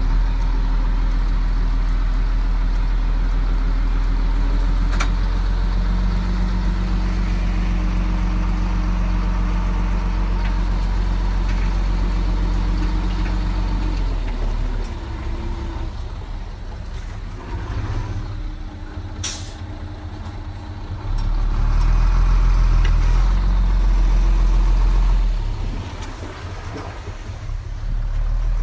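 Bulldozer's diesel engine running under load: steady and heavy for the first half, easing off, rising again for a few seconds, then easing off once more. Two brief sharp knocks stand out, one early and one about two-thirds of the way through.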